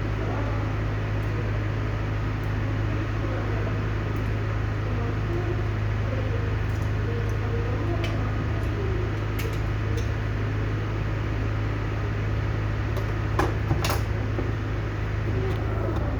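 Steady low mechanical hum, with a few light clicks about three-quarters of the way through.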